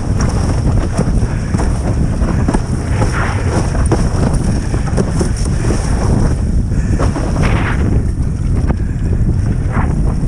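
Strong wind buffeting the microphone, a steady low rumble with scattered short splashes of water while foiling at speed.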